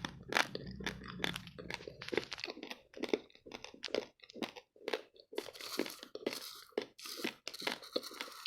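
Raw, uncooked basmati rice grains being chewed: a steady run of sharp, irregular crunches, about two or three a second.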